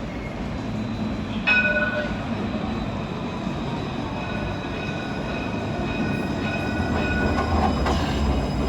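Luas street tram running with a steady low rumble. About one and a half seconds in there is a sudden short ringing tone, and a steady high whine holds through the middle.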